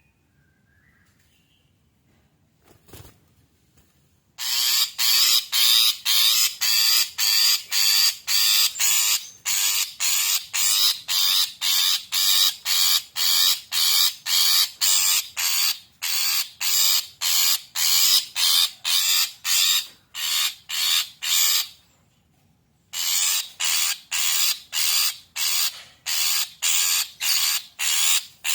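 Long-tailed shrike (cendet) in agitated, excited calling: harsh, rasping notes in a steady series of about two to three a second, starting about four seconds in, with a short break near the end.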